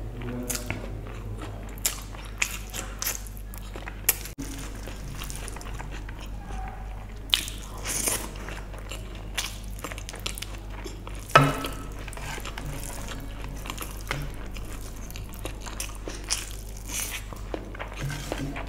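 Close-miked eating of vegetable biryani by hand: wet chewing and lip-smacking clicks at irregular intervals, the loudest a little past halfway, over a steady low hum.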